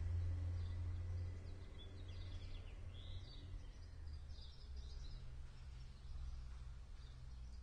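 A steady low outdoor rumble, with faint high bird chirps in short clusters about two to three seconds in and again about five seconds in.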